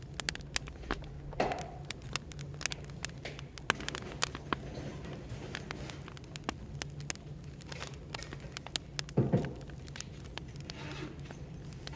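Firewood crackling and popping in quick, irregular clicks over a steady low background hum of cafe noise. A brief, louder muffled sound stands out about nine seconds in.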